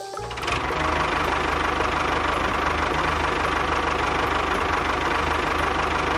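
A small motor running steadily with a rapid, even pulsing and a constant hum, starting about half a second in.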